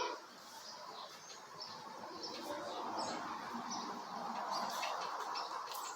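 Small birds chirping with short, scattered high chirps over a faint steady background hiss.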